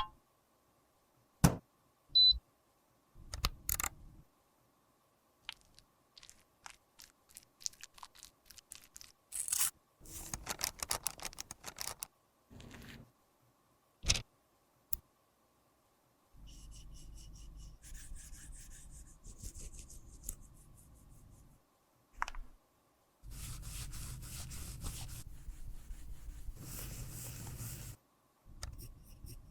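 Handling of cosmetics in makeup repair: scattered sharp clicks, taps and short scrapes, then two steady whirring stretches of about five seconds each in the second half.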